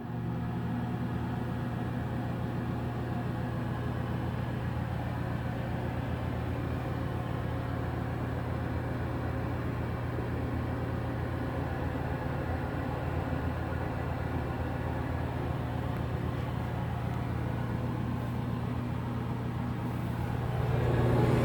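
Bathroom exhaust fan with a cut-down Nutone blower wheel in a 1980s Broan housing, running steadily: a low motor hum under the whoosh of moving air. It grows louder near the end.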